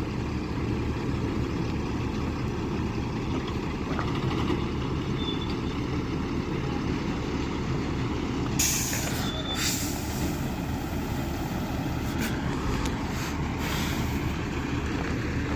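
A heavy vehicle's diesel engine running with a steady low rumble. About eight and a half seconds in comes a loud hiss of air brakes letting off air, followed by two shorter hisses.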